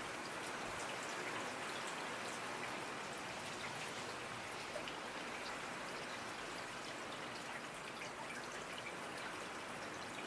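Steady rainfall: an even hiss with scattered individual drops ticking through it.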